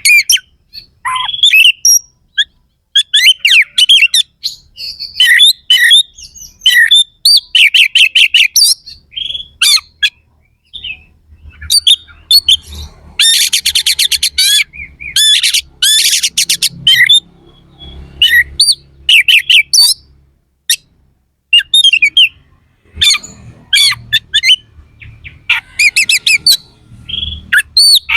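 Oriental magpie-robin (kacer) in full song: a loud, fast string of sharp whistles and chirps broken by rapid rattling runs, the harsh 'shooting' phrases (tembakan kasar). The longest rattles come about halfway through.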